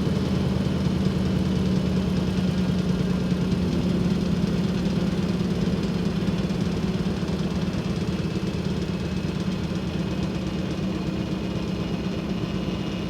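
Diesel engine of a 2021 ASV Posi-Track RT-120F tracked skid steer running steadily at constant speed, a low hum with a faint high whine over it.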